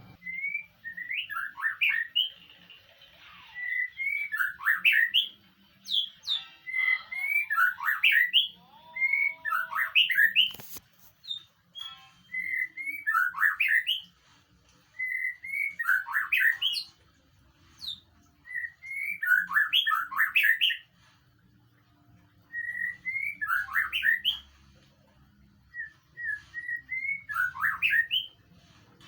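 White-rumped shama (murai batu) song played as a tutor recording. Short, rapid whistled phrases come every two to three seconds, with brief pauses between them.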